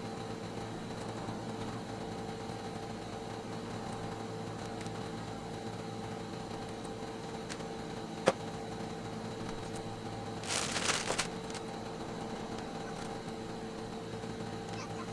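Steady appliance-like hum with a few fixed tones, broken by one sharp tap about eight seconds in and a short rustle a couple of seconds later.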